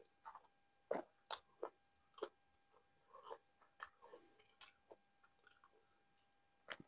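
Quiet close-miked eating sounds: soft chewing of naan soaked in nihari, with a string of short wet clicks and smacks from the mouth, loudest about a second in.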